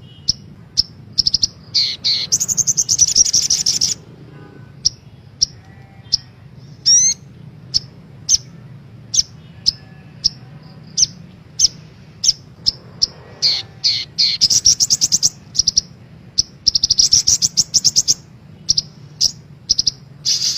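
Little spiderhunter (sogok ontong) calling: sharp, high chirps repeated about once a second, broken by fast rattling trills lasting a second or two, near the start and twice towards the end. A faint steady low hum runs underneath.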